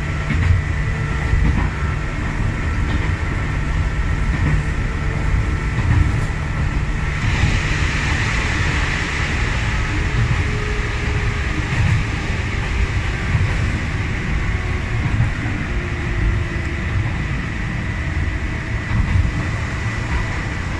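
Sangi Railway electric train running along the line, heard from inside the driver's cab: a steady low rumble of wheels on rail with small knocks and a faint steady high tone. About seven seconds in, a hiss swells for a few seconds and then fades back.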